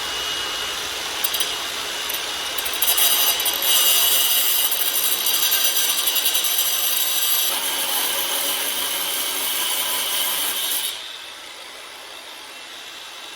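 A power tool cutting through rusted, seized exhaust flange bolts: a harsh, high, hissing cut with a thin whine at first. It grows louder about three seconds in and cuts off sharply about eleven seconds in, leaving only a low background.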